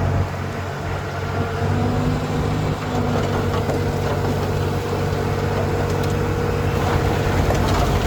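Diesel engine of heavy earthmoving machinery running steadily under a held high whine, with a few faint clicks near the end.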